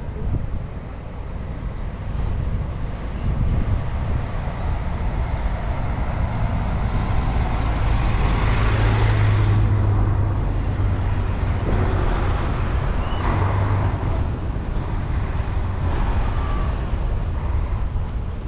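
A motor vehicle driving past, its low engine hum and tyre noise building to loudest about halfway through and then fading.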